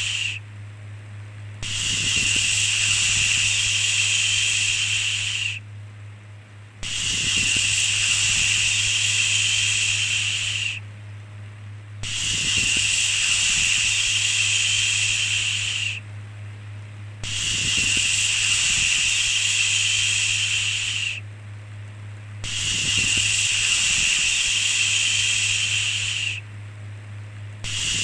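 Long, hissing "shhh" shushing sounds, each held about four seconds with a short break of about a second between them, repeating steadily five times over. A steady low hum runs underneath.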